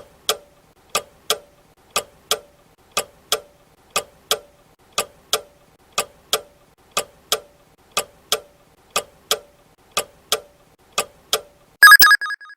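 Quiz countdown timer sound effect: a clock ticking in tick-tock pairs, one pair each second, through the twelve seconds allowed for an answer. Near the end a short, loud ringing signal sounds, marking that the time is up.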